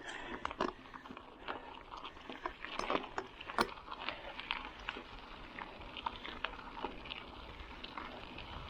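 Irregular light crunching and clicking of gravel on a trail, with scattered sharp ticks a second or so apart.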